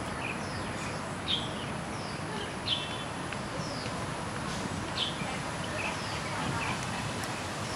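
Birds chirping: short, high, falling chirps about once a second, over a steady background hiss.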